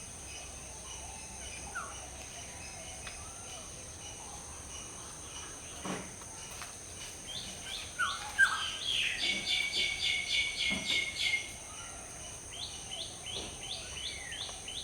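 A bird calling a fast series of short falling notes, about five a second, for a few seconds in the middle and again near the end, with a few single short calls earlier. A steady high insect drone runs underneath.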